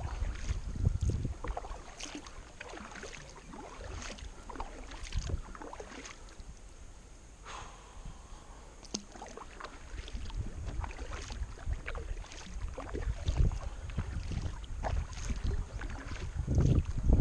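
Kayak paddle dipping and splashing in the river, with scattered drips and small splashes. Wind buffets the microphone, heaviest near the start and again near the end.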